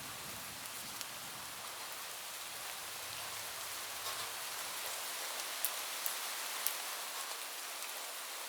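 Heavy rain falling steadily on a roof: an even hiss with a few sharp single drop hits in the second half. A faint low rumble fades out in the first half.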